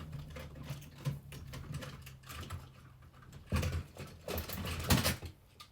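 Irregular clicks and knocks of hard plastic toys being handled and moved around while someone searches through them, louder twice in the second half.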